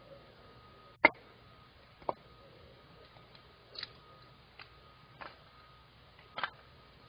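A handful of sharp, irregular clicks and knocks, about six spread over several seconds, the loudest about a second in, over a quiet background with a faint steady tone.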